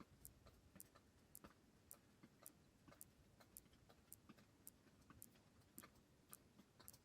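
Faint, even ticking, about two ticks a second, over a low hiss.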